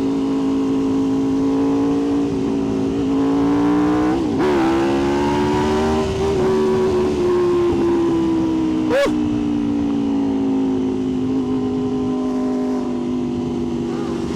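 Aprilia RSV4's V4 engine running at a steady cruise under way. The engine note rises a little about four seconds in, then eases slowly back down, with a short sharp blip about nine seconds in.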